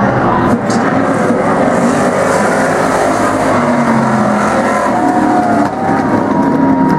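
Several racing demo-class car or truck engines running together at speed, their pitches rising and falling as they rev and pass.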